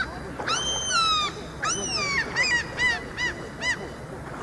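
Gulls calling: two long, drawn-out calls that fall in pitch at the end, then a quick series of four or five short yelps.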